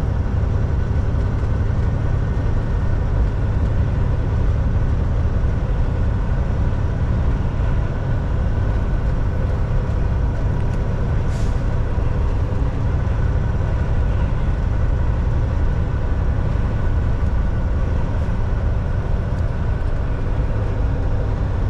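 Volvo VNL 760 semi-truck running steadily at highway speed: a low engine drone and road rumble with a few faint steady whines above it. A short high click comes about halfway through.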